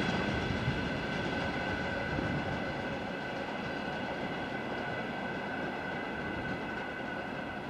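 A train hauled by a GE C36-7i diesel locomotive, rolling by and slowly fading away. Steady high whining tones sit over its rumble.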